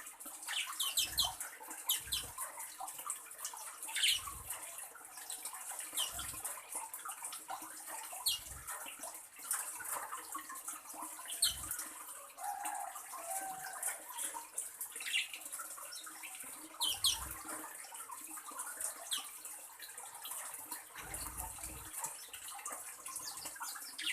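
Scattered short, high bird chirps over a steady hiss like running water, with soft low thumps every couple of seconds.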